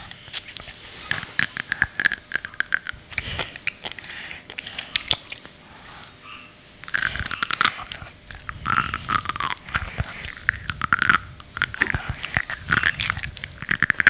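Child chewing a mouthful of sea grapes (grape seaweed) right up against the microphone: an irregular run of small clicks and pops as the beads burst between the teeth. The chewing gets louder and denser about halfway through.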